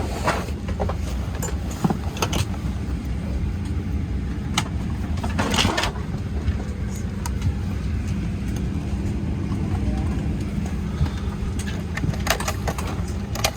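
Steady low hum inside a Boeing 737-800 cabin before departure, from the airliner's air-conditioning and ventilation, with scattered short clicks and knocks from the cabin.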